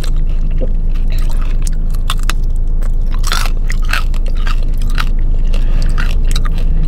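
Close-miked chewing of crispy fried chicken drumstick, with irregular crunches and wet mouth clicks. A steady low hum runs underneath.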